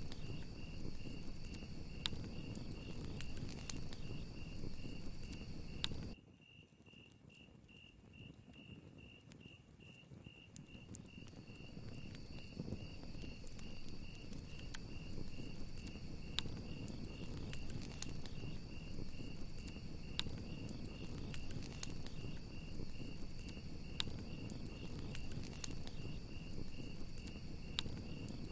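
Crickets chirping in a steady pulsing rhythm over a crackling campfire with scattered sharp pops. About six seconds in, the fire's crackle and a higher cricket cut out abruptly, leaving mainly the pulsing chirp, then fade back in over several seconds.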